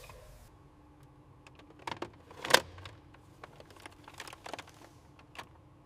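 Scattered light clicks and taps of hand tools and small parts being handled during assembly work, with one sharper click about two and a half seconds in.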